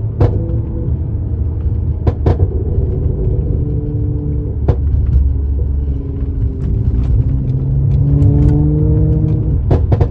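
Mercedes-AMG C43 engine and exhaust running with a steady low drone whose pitch shifts and rises near the end. The drone is broken by sharp exhaust pops and crackles: a few single ones, then a rapid run of them near the end. This is the overrun burble of an ECU pops-and-bangs tune.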